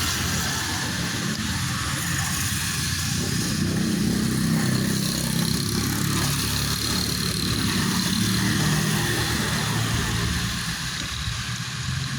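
A motor vehicle's engine running steadily on the move, with road and wind noise. The engine pitch wavers a little.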